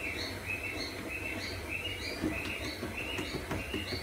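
A small bird chirping over and over, short notes about three a second that alternate between a lower and a higher pitch.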